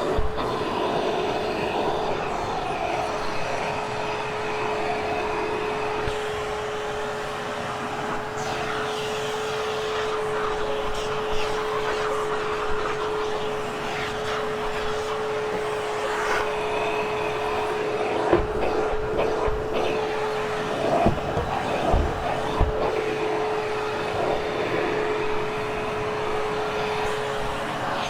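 Hoover Hushtone vacuum cleaner running steadily on carpet, a constant motor whine over the rush of suction, with a few sharp knocks in the second half.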